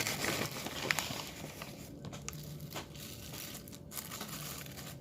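Crinkly packaging rustling as it is handled, with several short sharp clicks scattered through.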